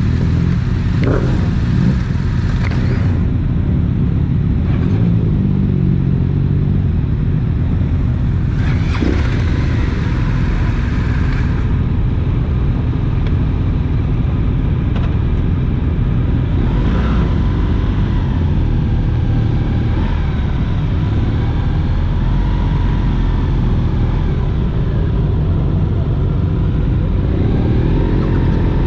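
Motorcycle running on the road, a continuous low rumble with the engine note rising and falling as the throttle opens and closes.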